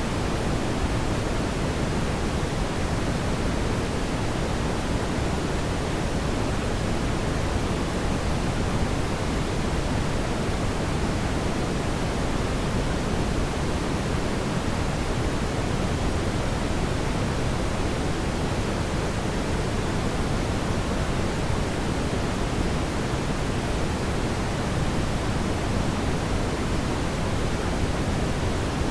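Steady, even rushing noise, heaviest in the low end, with no crackles or pops: the fireplace ambience track's continuous fire roar.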